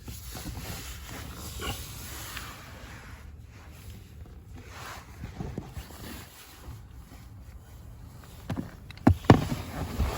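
Rustling and handling noises of a tool being worked at the clamp bolt on a steering-shaft universal joint under the dashboard, with a few sharp metallic clicks near the end.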